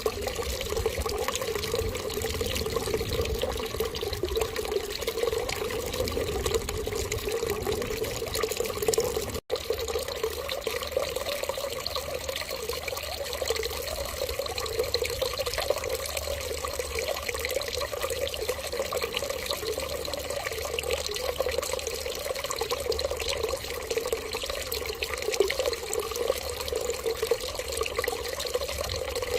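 Steady stream of running water, like a tap left running, with a split-second dropout about nine and a half seconds in.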